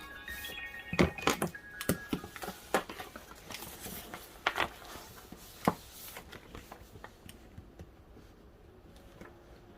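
Irregular sharp clicks and knocks, about seven in the first six seconds, from small objects handled at a desk, then quieter room tone.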